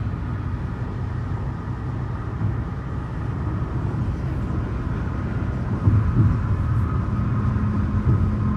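Steady low rumble of a car driving at highway speed, tyre and engine noise, with a few louder bumps about six seconds in.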